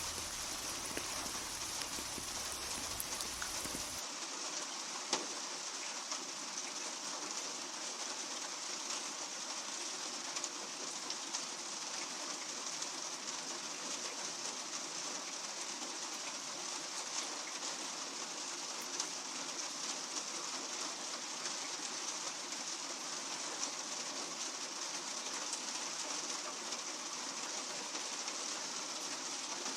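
Steady rainfall: an even hiss of rain on surfaces, with scattered drop ticks. A faint low rumble under it stops about four seconds in.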